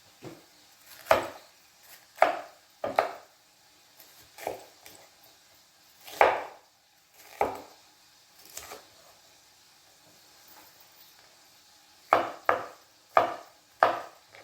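Kitchen knife striking a cutting board while slicing bell pepper: separate, unevenly spaced knocks, then a pause of a few seconds before a quicker run of four cuts near the end.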